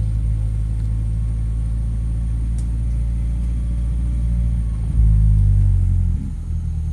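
2009 Mini Cooper S's 1.6-litre turbocharged four-cylinder engine running at fairly low, steady revs, heard from inside the car. It gets louder about five seconds in, then falls away near the end as the revs drop.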